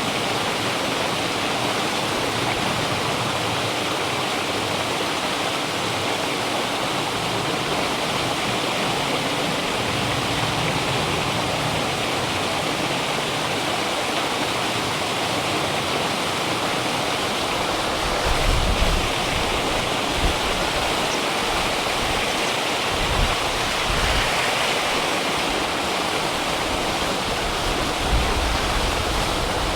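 A river rushing steadily, an even wash of flowing water. In the second half, low gusts of wind rumble on the microphone.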